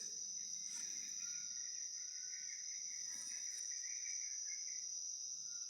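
Steady, high-pitched chorus of rainforest insects, unbroken throughout, with short fainter calls a few times lower down.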